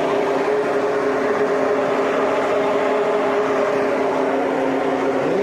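Steady engine drone, an even machine hum with no change in speed.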